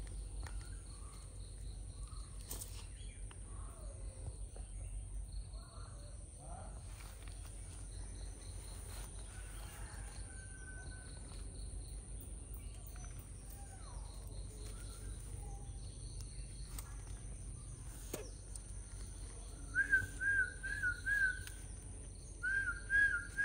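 Birds calling: scattered faint chirps, then near the end two runs of about four quick repeated call notes, the loudest sounds here. A steady low rumble runs underneath.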